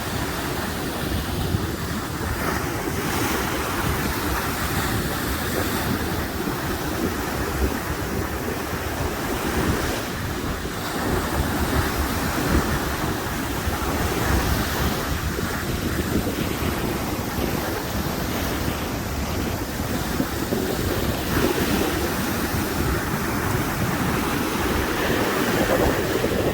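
Ocean waves breaking and washing ashore, with wind buffeting the microphone in a steady low rumble.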